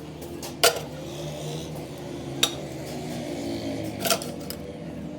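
Metal clanks of steel tools or parts striking each other, three sharp clanks a second or two apart over a steady low hum.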